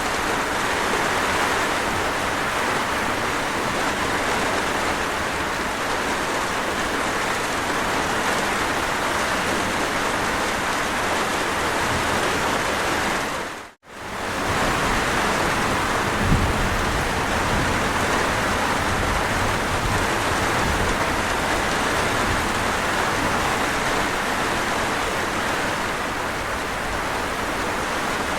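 Steady, heavy rain falling, an even dense hiss. About halfway through it dips sharply to near silence for a split second and comes straight back, and shortly after there is a soft low thump.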